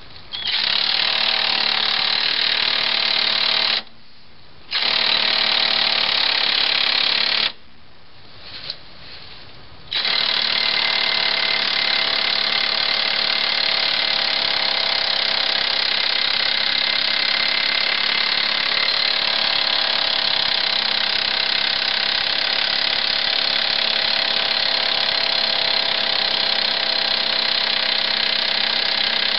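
Impact gun hammering a lug nut onto a new wheel stud, pulling the stud through the hub until its base seats flush. It runs in three goes: a short pause about 4 s in, a longer one about 8 s in, then one long unbroken run.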